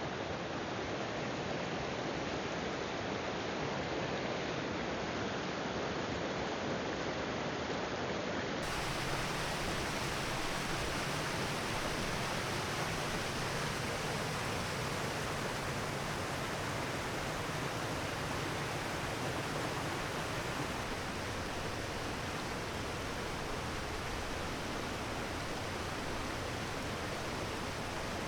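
Steady rushing of running water from a stream or cascade, an even noise with no breaks; it turns brighter about nine seconds in.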